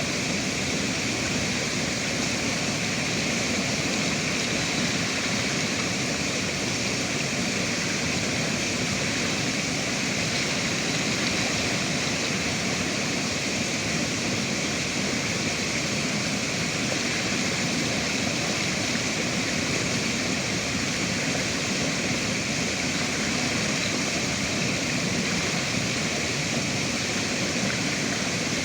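Steady rushing of river water, an even sound with no changes.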